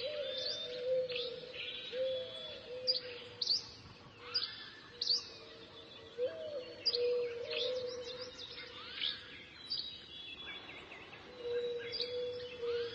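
Wild birds chirping and calling in quick, sharp notes, with a steady lower note running underneath that drops out for a while after the middle.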